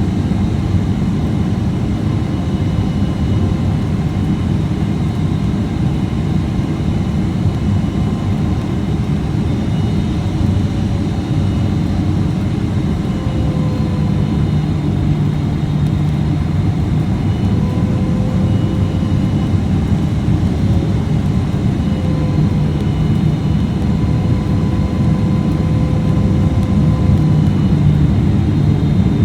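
Steady cabin noise of a Boeing 777-300ER: a deep rumble of the GE90 engines and airflow, with faint, slightly wavering engine tones above it. It gets a little louder near the end.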